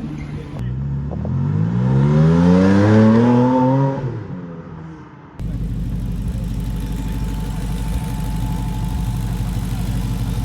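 A car engine accelerating hard, its pitch climbing steadily for about three seconds before fading away. After a sudden cut, another engine runs steadily at a low, even idle.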